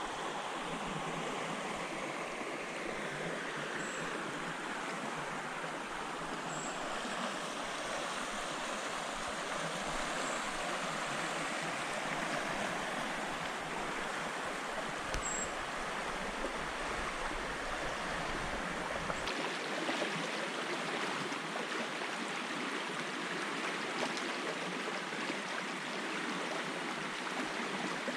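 Steady rushing of running water, like a woodland stream, with a few brief high peeps over it. A deep rumble under the rush drops out about two-thirds of the way through.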